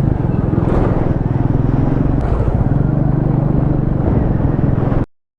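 Motorcycle engine running steadily while riding, with wind rumbling on the microphone. It cuts off abruptly about five seconds in.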